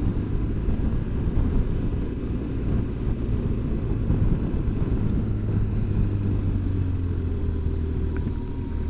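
BMW R1200GS Adventure motorcycle's flat-twin engine running while being ridden along a road, with road noise: a steady low drone whose pitch drifts slightly.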